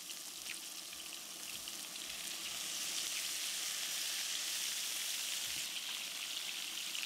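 Buttered salmon fillets sizzling and crackling on the hot grill plate of an electric hot pot. The sizzle grows louder about two and a half seconds in, as lemon juice is squeezed onto the fish.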